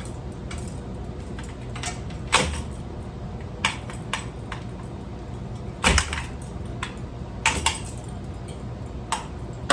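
Scattered clicks and knocks from handling a ceiling fan's parts and wiring, the loudest about six seconds in, over a steady low hum.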